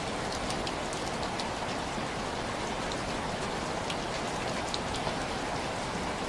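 Steady heavy rain falling, an even rushing hiss, with scattered sharp little ticks throughout.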